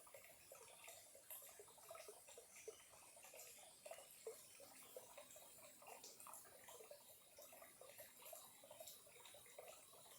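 Small clear stream trickling faintly, a steady run of irregular little gurgles and plinks of water.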